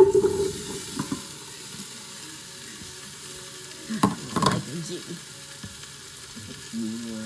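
Chopped vegetables tipped into a hot oiled pan hit with a sudden loud sizzle. They then settle into steady stir-fry sizzling.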